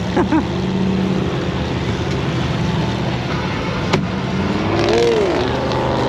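Off-road race vehicle engines running, one revving up and back down about five seconds in, with a single sharp crack about four seconds in.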